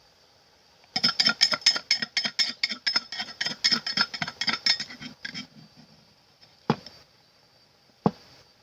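Rapid knocking of a kitchen utensil on a hard surface, about five strikes a second for some four seconds, then two single knocks.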